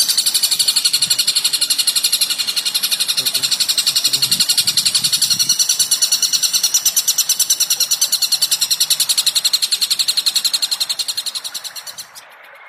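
A bird chattering in a fast, unbroken run of sharp, high chirps, about ten a second, that fades and stops near the end.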